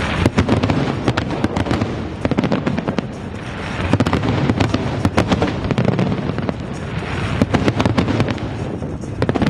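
Fireworks display with a dense, continual barrage of bangs from bursting shells and crackling, slightly thinning for a moment around the third second and again near the end.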